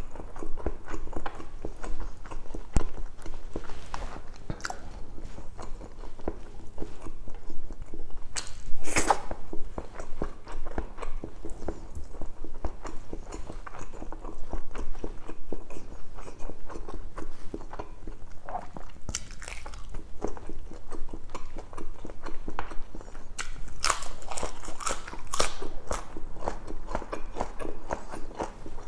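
Close-up chewing and biting of spicy pork adobo cooked in coconut milk: steady wet mouth noises and small clicks, with a few louder crunchy bites at about 9 s, 19 s and 24–26 s.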